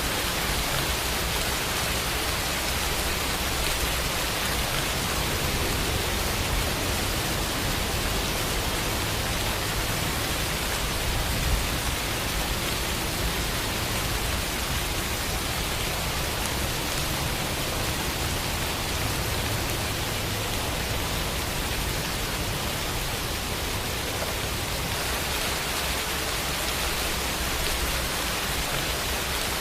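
Steady rainfall: an even, dense hiss of rain with no other sounds.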